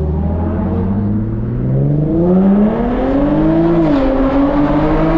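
Infiniti G37 coupe's VQ-series V6 running loud through a full titanium Tomei exhaust under hard acceleration. The engine pitch climbs steadily, drops at a gear change nearly four seconds in, then starts climbing again.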